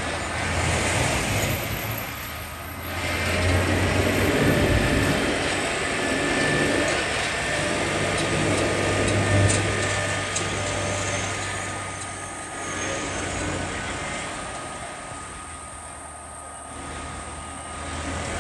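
Freight train of covered hopper cars rolling steadily across a street overbridge: a continuous rumble and clatter of wheels on rail, mixed with city street traffic running below.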